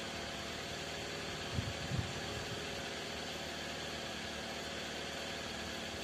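An engine idling steadily under an even hiss. Two short low thumps come about one and a half and two seconds in.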